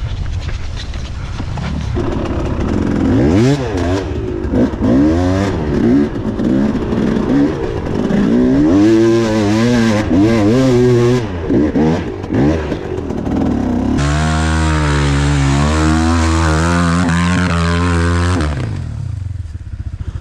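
Enduro dirt bike engine revving hard in repeated surges, its pitch rising and falling, then held at high revs for a few seconds before dropping back to idle near the end.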